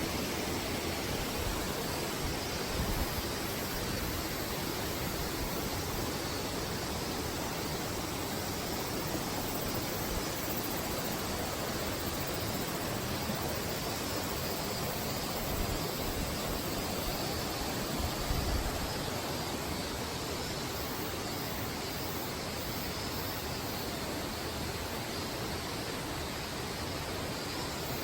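Steady rushing of a waterfall, an even roar of falling water, with a couple of brief low bumps about three seconds in and again past the middle.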